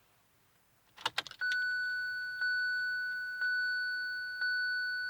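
A brief rattle of clicks about a second in, then the 2017 Kia Sorento's interior warning chime starts and rings steadily, re-struck about once a second.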